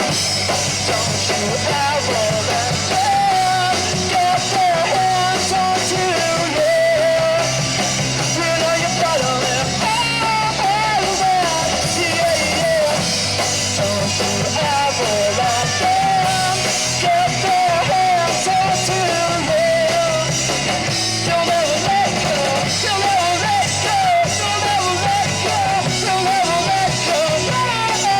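Live rock band playing loud punk-rock music: electric guitars and drum kit, with a wavering melodic line over it.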